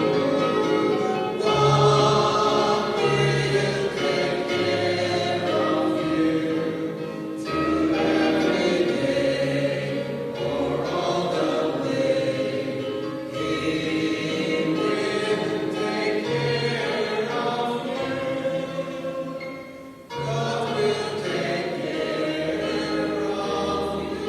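A group of voices singing a hymn with instrumental accompaniment and sustained bass notes underneath, dropping briefly about twenty seconds in before the singing picks up again.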